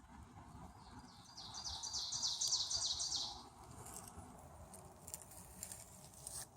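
A songbird singing a rapid series of high, repeated notes lasting about two seconds, followed by a few faint clicks.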